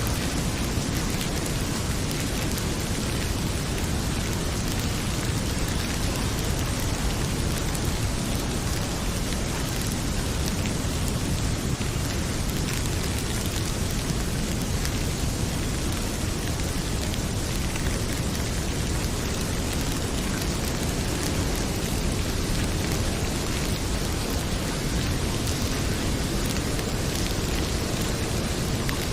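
Heavy rain pouring steadily, with a deep even rumble and occasional faint crackles from a wood fire in a fireplace.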